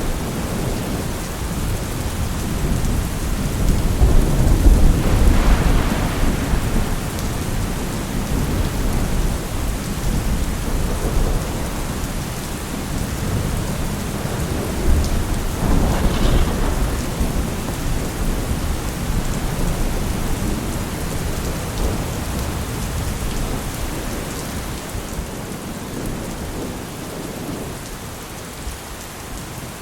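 Steady rain with low rolling thunder rumbling under it, swelling about five seconds in and again past the middle, then easing off toward the end.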